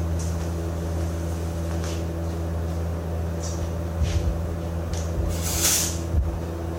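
An engine running steadily at idle, a low even hum. A few light clicks sound over it, and there is a short hiss about five and a half seconds in.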